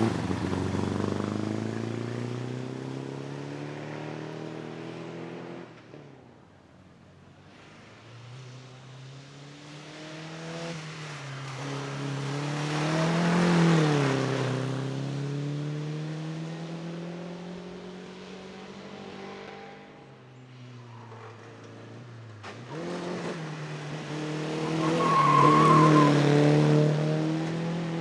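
Three vintage racing cars in turn, each engine note climbing in pitch as the car accelerates hard past and then fading away, with a brief high squeal near the end.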